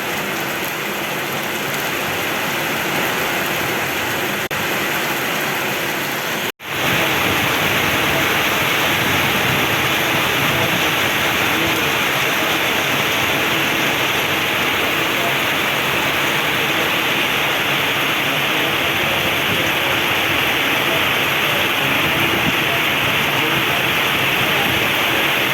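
Heavy rain pouring in a steady, dense hiss. The sound cuts out for an instant about six and a half seconds in, then carries on slightly louder.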